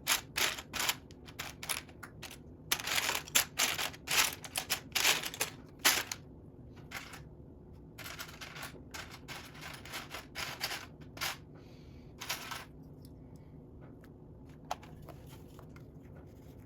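Loose Lego plastic pieces clicking and clattering as a hand sifts through them, in quick clusters that thin out over the last few seconds.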